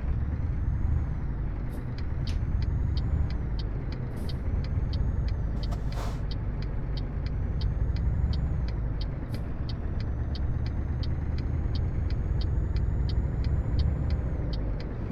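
Scania R730's 16-litre V8 diesel engine running steadily as the truck drives, with a faint high whine that rises and holds. A light ticking repeats evenly about two to three times a second, with one sharper click about six seconds in.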